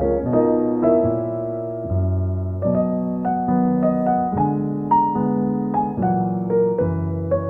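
Slow, gentle piano music: notes and chords struck about once or twice a second and left to ring.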